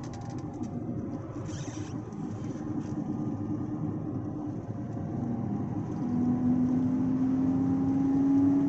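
Howl of a 2014 Audi Q5's rear wheel bearings while driving: a steady drone over road and tyre rumble. About six seconds in it grows louder and climbs slightly in pitch as the speed rises toward 50 mph. The owner takes the howl for both rear wheel bearings being shot.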